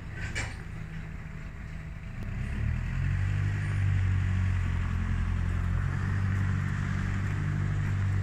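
Acme VT88 single-cylinder petrol engine on a BCS Mini walk-behind hay mower running steadily, speeding up about three seconds in and then holding at a higher, louder speed. A brief click comes just after the start.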